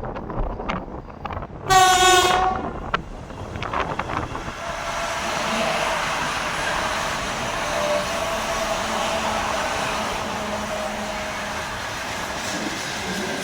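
A train sounds one short horn blast about two seconds in. Then the steady rushing noise of the train running past the platform builds up and holds.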